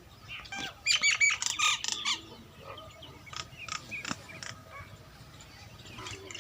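Birds calling: a quick run of loud, high calls about a second in, then fainter scattered calls.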